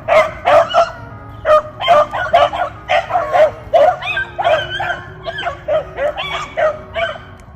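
A pack of beagles baying while running a rabbit: a steady stream of short, overlapping bawls and yips at different pitches.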